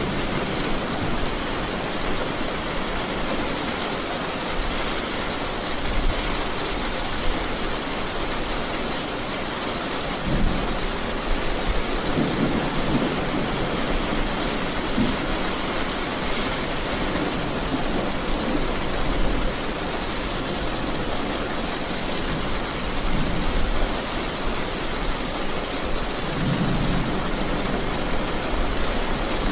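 Steady heavy rain falling, with low rumbles of thunder rolling in about a third of the way through and again near the end.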